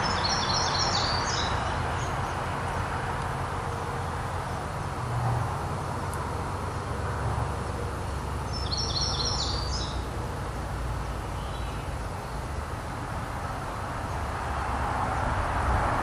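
A bird chirping in two short bursts of rapid high notes, one near the start and one about nine seconds in, over a steady outdoor hiss and low rumble.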